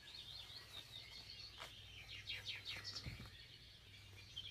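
Faint background birdsong: many high chirps, with a quick run of short falling notes about two to three seconds in, over a steady low hum.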